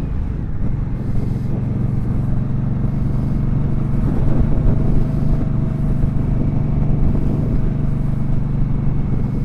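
Indian Scout Sixty's liquid-cooled V-twin engine running steadily under way, heard from the rider's position, growing a little louder about four seconds in.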